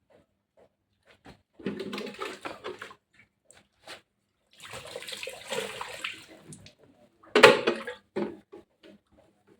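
Water splashing in three irregular bursts, the last and loudest near the end, followed by a few short knocks.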